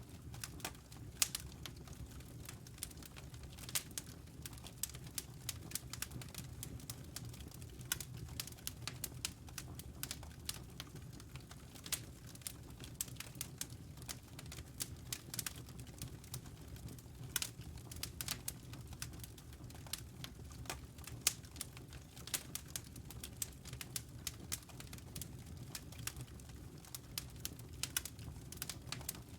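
Wood fire in a fireplace crackling: irregular sharp pops and snaps from the burning logs, several a second, over a steady low rumble.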